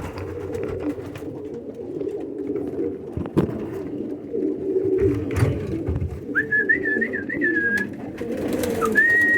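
Many domestic pigeons cooing together in a loft, a dense steady chorus of low coos. A high whistle wavers about six seconds in and a held whistled note comes near the end.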